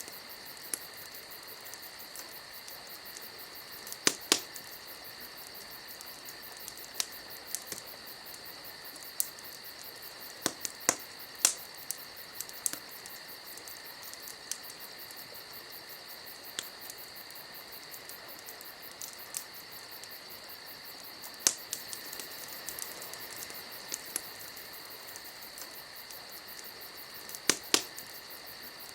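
Campfire crackling with sharp pops every few seconds, some in quick pairs, over a steady high-pitched chirring trill.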